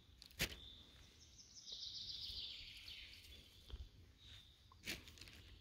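Faint forest birdsong: a songbird's trilled song falls in pitch over about a second and a half, among short high single notes. Two sharp clicks cut through it, one just after the start and one near the end.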